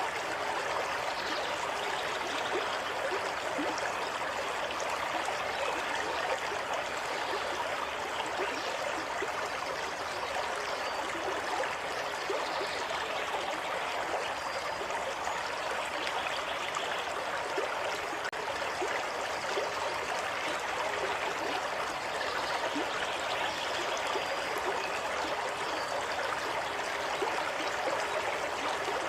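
Water running steadily over rocks in a stream, a continuous babble of trickles and small splashes.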